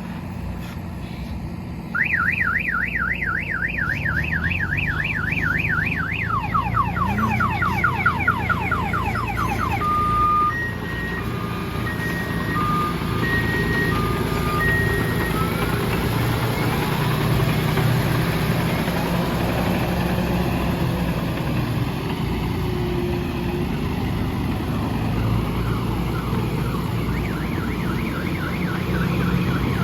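An electronic multi-tone siren-type alarm cycles through its patterns: a fast up-and-down warble for about four seconds, then quick falling sweeps, then alternating high and low beeps, with the warble coming back faintly near the end. A heavy vehicle engine runs steadily underneath.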